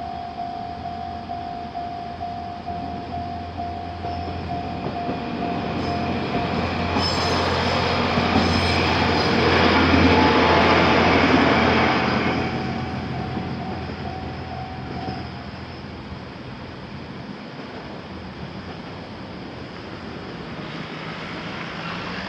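Japanese level-crossing warning bell ringing while a diesel train passes over the crossing, growing loudest about halfway and then fading away. The bell stops about two-thirds of the way through as the crossing clears.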